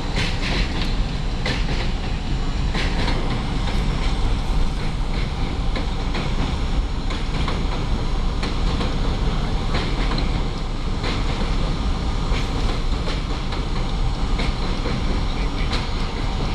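R32 subway train running at speed: a steady heavy rumble from the wheels and running gear, with sharp clicks every second or two as the wheels pass over rail joints.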